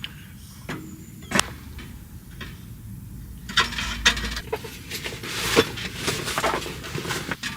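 Camping gear being handled by hand: a few sharp clicks, then from about halfway on a run of scraping and rustling with more clicks.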